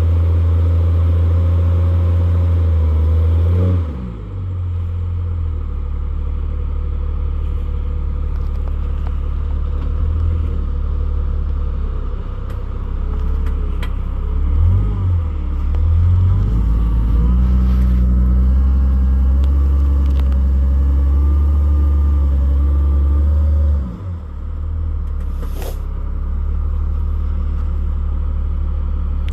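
Jeep Cherokee XJ rock crawler's engine running under low-speed load, its revs rising and falling with the throttle. The engine note drops off sharply about four seconds in and again some twenty seconds later.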